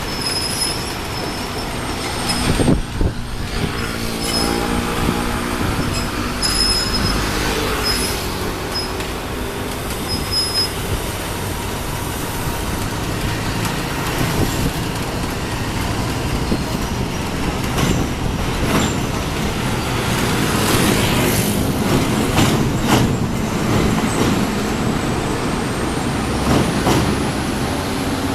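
Train running across a railway bridge: a steady, loud rumble, with a run of sharp clacks about two-thirds of the way through.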